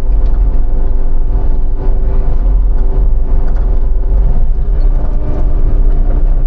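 A vehicle or machine engine running steadily and loud, close to the microphone, with a deep rumble and a steady hum.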